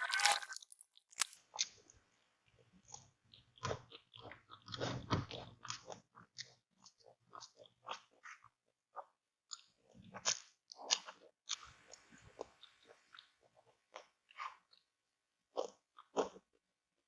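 Close-miked eating sounds of an ayam geprek meal: irregular crunchy bites and wet chewing, with short mouth clicks and smacks.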